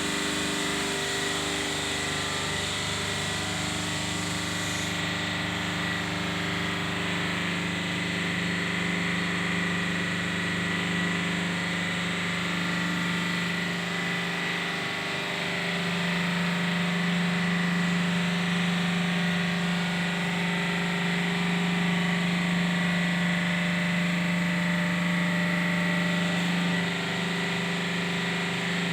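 An engine or motor running steadily with a low hum and a thin high whine, getting a little louder about halfway through.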